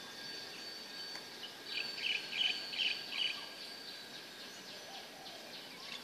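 A songbird calling a quick series of about five repeated notes, roughly two to three a second, in the first half. Under it is a steady, faint high-pitched tone and outdoor background noise.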